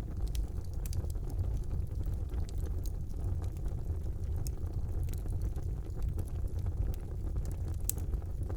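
Fire burning in a fireplace: a steady low rumble of flames with scattered crackles and pops, a sharper pop near the end.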